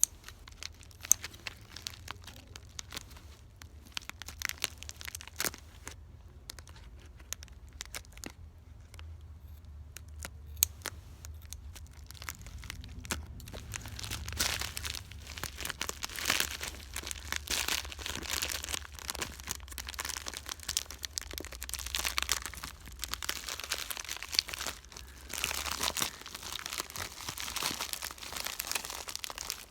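A mail package being torn open by hand and its wrapping crinkled and rustled. Scattered sharp crackles come first, then steadier, denser crinkling from about halfway through.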